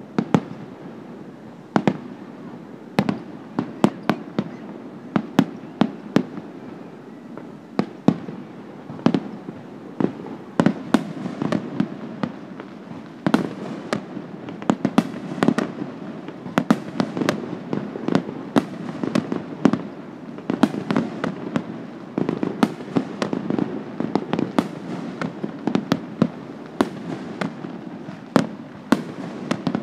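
Aerial fireworks shells bursting in a rapid, irregular series of sharp bangs over a continuous low rumble. The bangs come thicker and faster from about halfway through.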